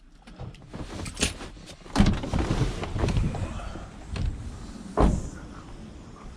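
Scrap metal being handled and loaded into a van: irregular clanks and rattles, with two heavy thuds about two seconds and five seconds in.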